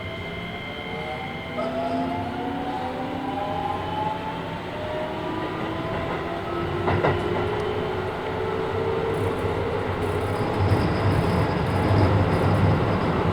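Keisei 3000 series train's Toyo IGBT VVVF inverter and traction motors accelerating, heard inside the car. A steady high tone stops about a second and a half in. Then several whining tones climb steadily in pitch while wheel and rail rumble builds, with a single click about seven seconds in.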